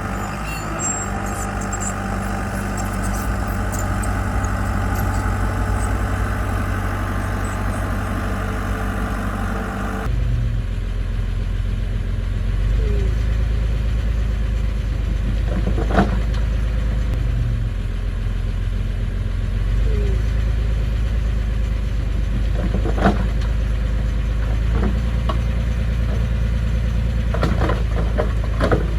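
Heavy construction machine's engine running steadily with a low drone. The sound changes abruptly about a third of the way through, and a few sharp knocks or clanks come later.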